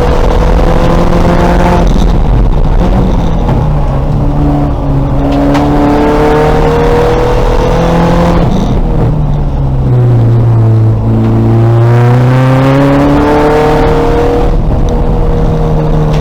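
A 2000 VW Golf race car's engine running hard on track: the revs climb, drop briefly about two seconds in at a gear change, and climb again. About eight seconds in they fall away and stay low for a few seconds as the car slows, then pull up again through another shift.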